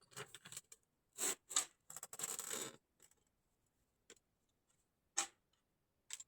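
Small snare drum and its hardware being handled: scattered light metallic clicks and knocks, with a brief scraping sound a little after two seconds.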